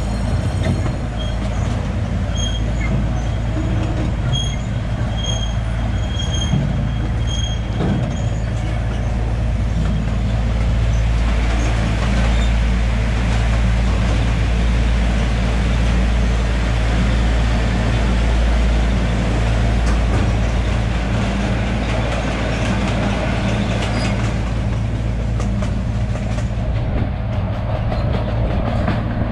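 Miniature ride-on train running along its track: a steady low rumble of the locomotive and cars. A few short high squeaks come in the first several seconds, and the running noise grows fuller while the train passes through a covered wooden tunnel.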